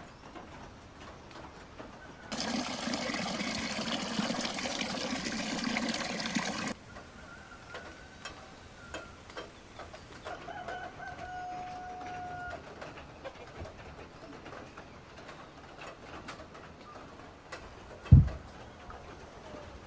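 A rushing noise for about four seconds, then a faint drawn-out bird call, and a single loud thump near the end.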